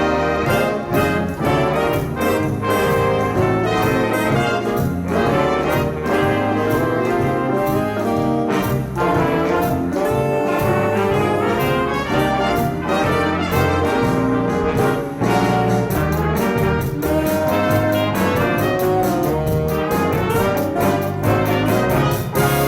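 Instrumental ensemble music with prominent brass and a steady beat, starting sharply at full volume.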